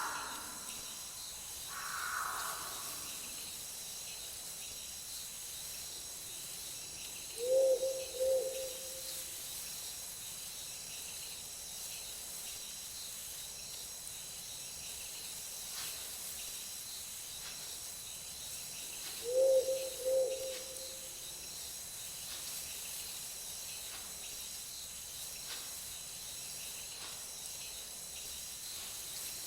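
Night forest ambience: a steady high chorus of crickets and other insects, with an owl giving a low two-note hoot twice, about twelve seconds apart.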